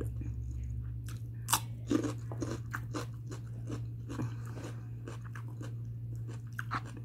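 Close-up chewing of a bitten-off mouthful of raw cucumber: irregular crunches, the sharpest about a second and a half to two seconds in, over a steady low hum.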